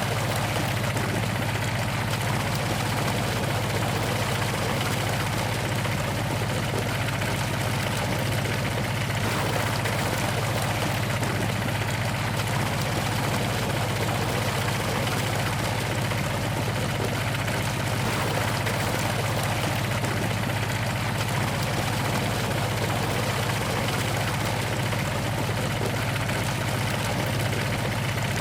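A steady, unchanging engine-like hum, like an engine idling.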